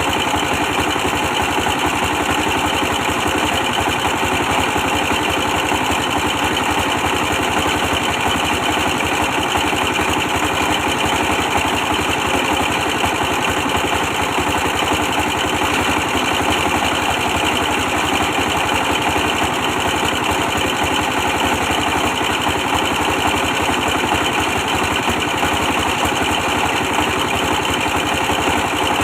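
A 24 hp stationary diesel engine running steadily at a constant speed, with a fast, even chugging.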